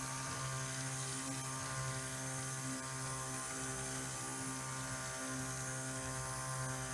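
Handheld stick blender running steadily at an even speed, mixing lye solution into the soap oils.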